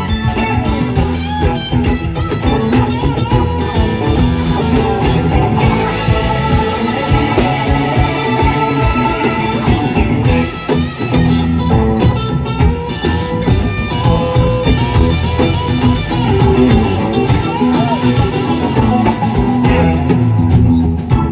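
Rock band playing an instrumental jam: electric guitar lines over bass and a steady drum beat.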